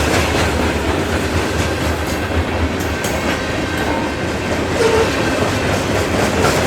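Freight train passing close by: steady rumble and clatter of wheels on the rails. A deep low rumble weakens about two and a half seconds in.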